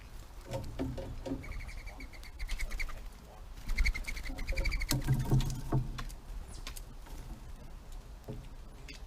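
Wild birds calling: two quick runs of short, high, evenly spaced notes, with scattered sharp clicks and taps between them.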